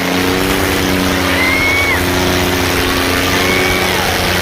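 Tractor diesel engines running steadily. Short high whistles, each rising and falling, come about every two seconds.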